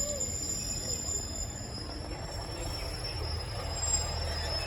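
A train running, with a steady low rumble and thin, steady high-pitched squealing tones.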